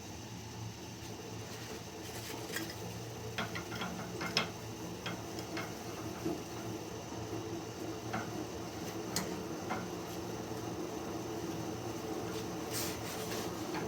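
Steady low hum of the running steam boiler, with scattered light clicks and taps from the sight-glass valves and fittings being handled.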